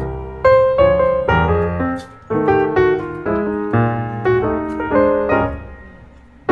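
Background piano music: struck chords and melody notes ringing and dying away, fading down near the end before a new chord.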